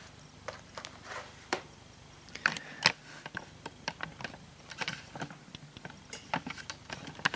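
Irregular small clicks and taps of hands handling a laptop screen panel and its plastic back cover.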